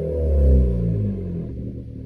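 VW Golf Mk7 engine through a custom exhaust, falling back from a rev toward idle. The exhaust note drops steadily in pitch and fades.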